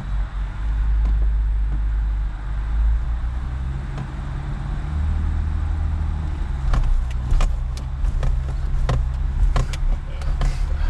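Off-road vehicle's engine running in low range as it sets off and crawls, its note rising a little about four to five seconds in. From about six and a half seconds, sharp knocks and rattles come from the vehicle working over rough ground.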